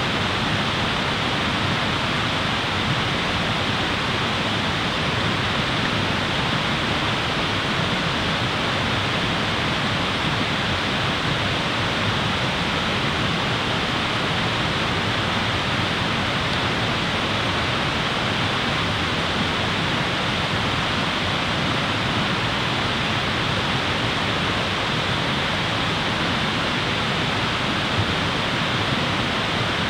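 A steady, even rushing noise with no clear crackles or other separate sounds.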